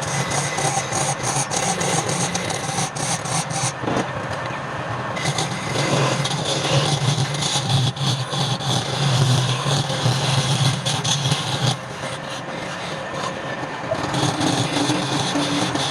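Wood lathe motor running steadily while a turning tool cuts the spinning palm-wood piece, a rough scraping hiss over the motor's hum. The cutting hiss drops away briefly twice, around four and twelve seconds in, while the hum carries on.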